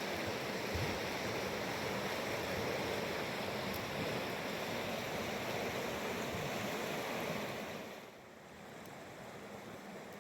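Rushing river water, a steady rush that drops noticeably quieter about eight seconds in.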